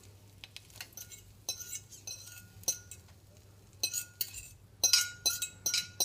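Metal cutlery clinking against a dish: sharp, scattered taps that each ring at the same pitch, coming quickly one after another in the last couple of seconds.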